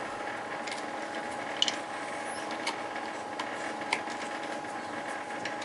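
Scattered light clicks and taps of hand tools and parts being handled on an oil burner, over a steady mechanical hum.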